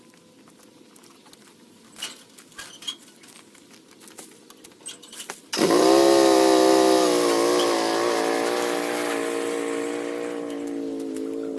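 Small petrol engine starting about halfway through: it catches suddenly, runs fast with a slight waver in pitch, then settles a little lower. Scattered light clicks and taps come before it starts.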